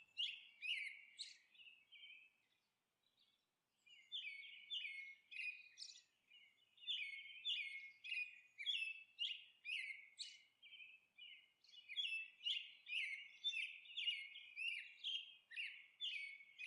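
Faint birdsong: small birds chirping in quick, short repeated notes, with a gap of about two seconds near the start before the chirping picks up again.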